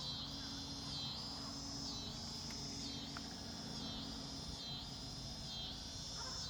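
Insects singing: a high-pitched buzzing trill that pulses on and off about once a second, over a low steady outdoor hum.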